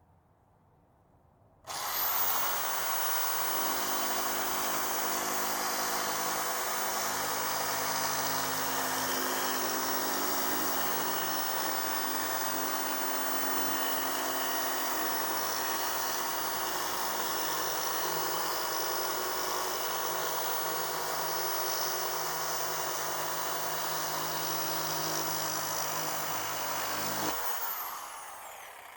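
Electric power tool starting up about two seconds in and running steadily while cutting a marked piece to length, then switching off and winding down near the end.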